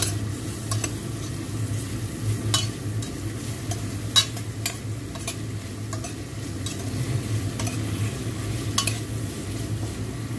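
Shrimp, onions and tomatoes sizzling as they fry in a metal pot, stirred with a metal spoon that scrapes and clicks against the pot now and then. The loudest click comes about four seconds in, over a steady low hum.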